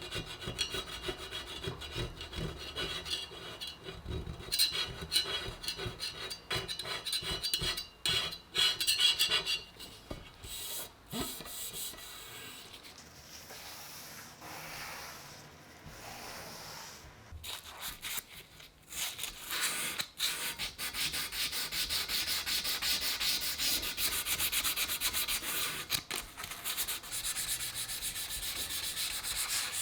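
Hand sanding: rapid back-and-forth rubbing strokes, easing off to a quieter, sparser stretch about midway, then a fast, even run of strokes.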